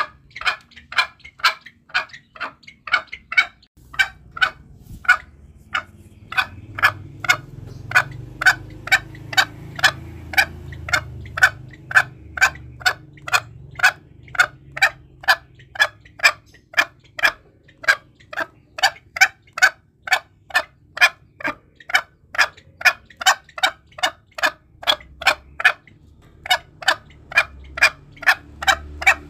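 Green junglefowl calling: a long, even series of short, sharp notes, about two a second, used as a hunting lure. A low rumble sits underneath from about four seconds in.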